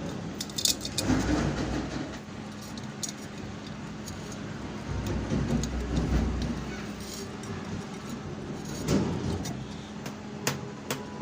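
Light metallic clinking, ticks and handling rattles of hands fitting wires to a pedestal fan's speed selector switch, with a few sharp clicks near the end.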